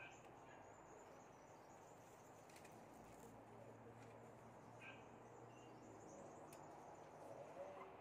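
Near silence: faint outdoor background with a couple of faint, brief bird chirps, one at the start and one about five seconds in.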